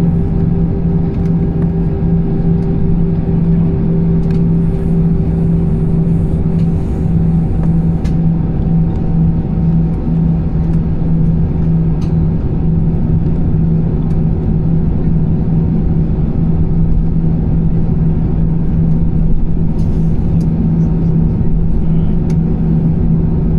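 Cabin noise inside an Airbus A320-214 on the ground, its CFM56-5B engines running at low power with a steady low hum over a rumble, as heard while taxiing out. A higher tone fades away over the first several seconds.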